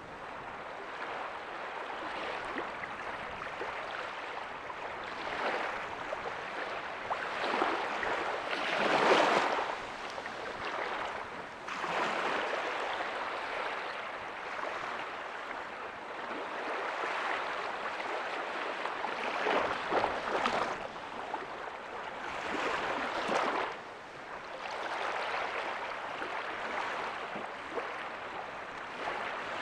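Small ocean waves breaking and washing up a beach, a steady surf hiss that swells with each wave every few seconds, the biggest surge about nine seconds in.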